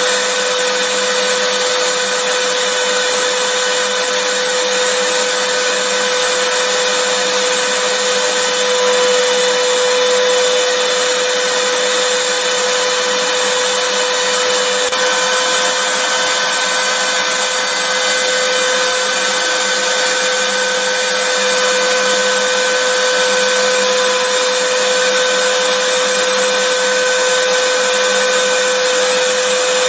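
Vacuum cleaner running steadily: a constant rushing noise with a steady mid-pitched hum.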